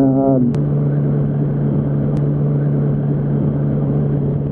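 Yamaha R1's inline-four engine running at a steady speed while riding, a constant low drone. A higher tone dips and cuts off just after the start, and there are two faint clicks.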